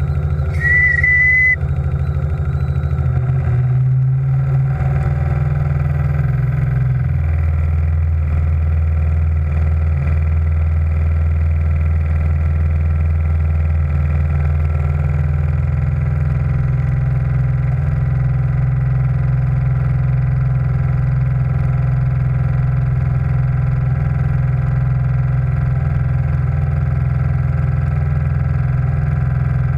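A steam launch's steam engine running steadily, with a fine rapid beat, settling into a new speed a few seconds in. A short single-note whistle blast sounds about a second in.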